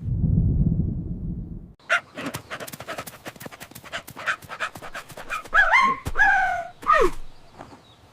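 Cartoon dog sound effects: a low rumble for about two seconds, then a run of rapid sharp crackles, then a few short rising-and-falling dog yelps near the end.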